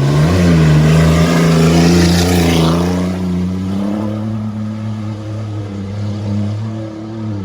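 An old Oldsmobile car's engine pulling under load at fairly steady revs on a dirt trail, with a rushing noise over roughly the first three seconds. Right at the end the revs drop away.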